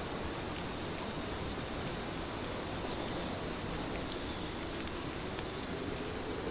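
Heavy rain falling steadily, a dense even hiss scattered with the ticks of individual drops.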